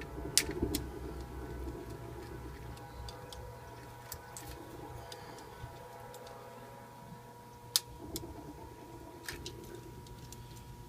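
Scattered light clicks and taps from handling the old AC disconnect and its parts, about eight in all, over a steady faint hum.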